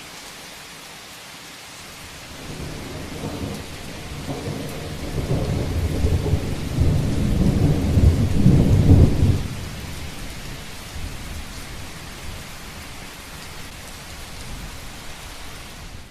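Steady rain on a roof, with a rumble of thunder that builds, peaks just past the middle and fades away again.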